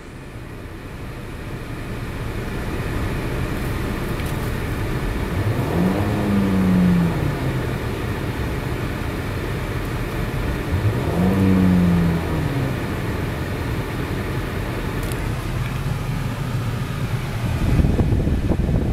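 Nissan Bluebird Sylphy's four-cylinder petrol engine idling in park, revved briefly twice, the pitch rising and falling back each time.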